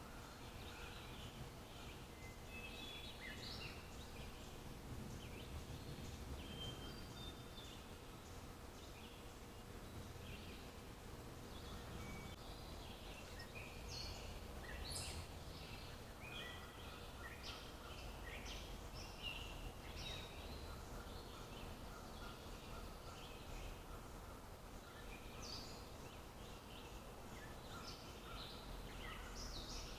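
Several small birds chirping and singing, short calls overlapping throughout, over a faint low steady rumble of outdoor background noise.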